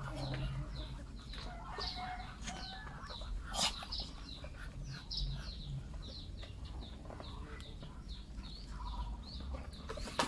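Short, high, falling bird chirps repeat about twice a second over a low rumble, with one sharp click about three and a half seconds in.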